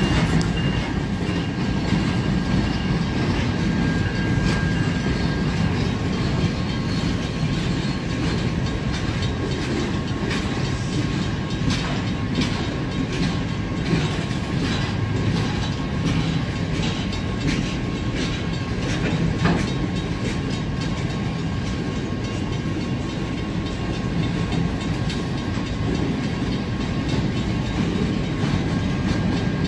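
Empty military flatcars rolling past, a steady rumble of steel wheels on rail with scattered clicks as the wheels pass over rail joints.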